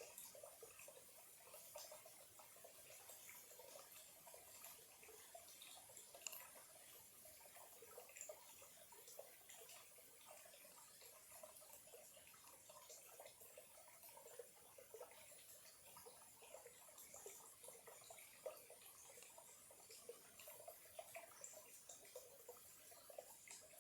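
Faint trickle of a small stream: a steady run of little gurgles and plinks of water.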